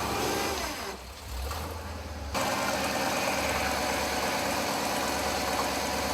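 Off-road competition truck's engine idling with a steady, rapid pulse. The sound steps up sharply in loudness about two seconds in.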